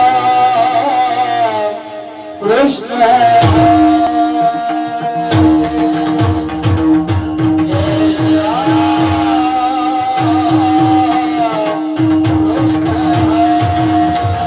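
Varkari devotional singing: a male voice holds and bends long high notes over a steady drone. About three and a half seconds in, the pakhawaj drum joins with a steady rhythm of sharp strokes, along with jingling cymbal beats.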